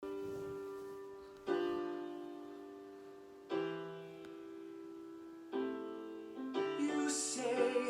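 Instrumental introduction on piano: sustained chords struck about every two seconds, then a quicker run of notes near the end with a brief hissy wash.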